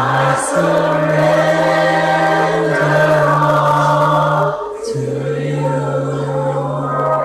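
Gospel worship music: a choir singing long held notes over a steady low sustained tone, which breaks off briefly a little past halfway.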